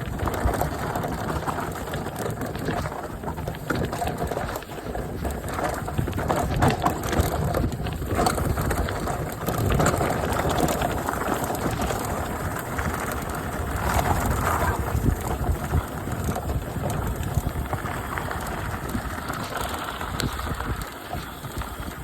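Mountain bike riding down a rough path: tyres crunching and the bike rattling over the ground with many small knocks, with wind buffeting the microphone.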